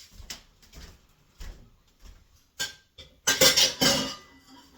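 Kitchen handling noises: a run of short clicks and knocks, then a louder rustling scrape about three seconds in.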